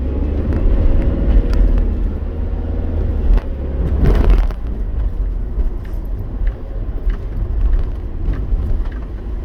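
Steady low rumble of engine and road noise inside a moving vehicle's cabin, with a louder rushing surge about four seconds in.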